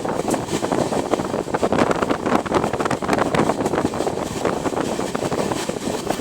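A train running, with a steady rumble and rapid, irregular rattling and clatter, and wind buffeting the microphone.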